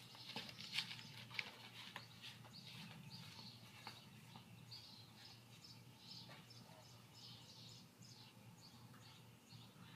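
Faint, scattered bird chirps over a low steady hum, with a few light knocks in the first second and a half.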